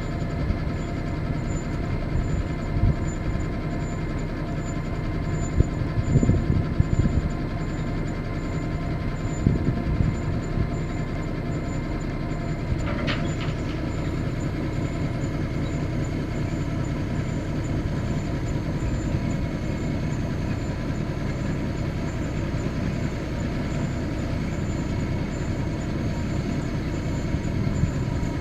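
Ford boom truck's engine running steadily, with a few louder knocks about six to ten seconds in and a short sharp sound about thirteen seconds in.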